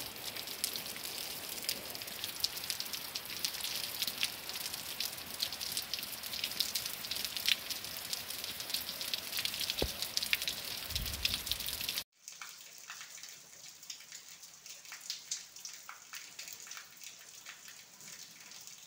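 Rain falling on a street, a dense hiss full of individual drop ticks. About twelve seconds in it switches to quieter, lighter-sounding rain with sparser drop ticks.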